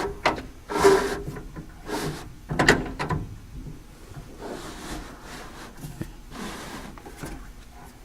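Door window glass of a 1955–59 Chevy/GMC truck being wound up by hand, rubbing and squeaking in new rubber glass run channels in a series of short strokes, loudest in the first three seconds. The drag comes from the glass fitting tight in the fresh weatherstrip.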